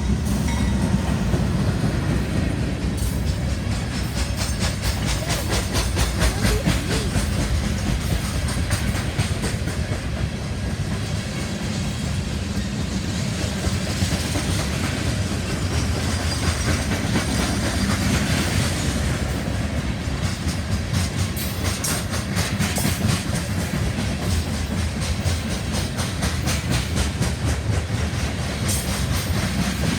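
Coal train's cars rolling past, steel wheels clacking in a steady rapid rhythm over the rail joints above a continuous low rumble.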